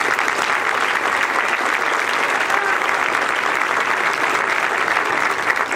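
Audience applauding, a steady wash of many people clapping that fades out about a second after it ends.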